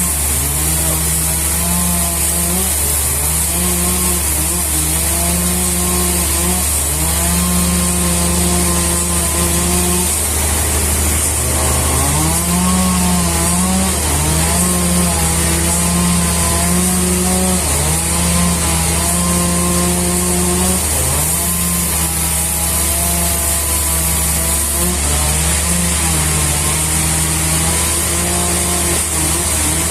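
Engine-powered saw running at high speed while cutting wood, its pitch dropping repeatedly under load and recovering between cuts.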